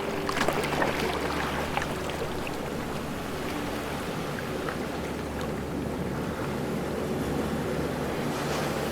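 Ocean waves washing in a steady rush, with a few sharper splashes in the first two seconds. A low, steady hum runs underneath.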